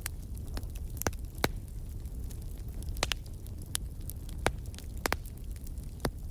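Wood fire crackling in a fireplace: irregular sharp pops and snaps, about ten of them, some in quick pairs, over a steady low rumble of the burning fire.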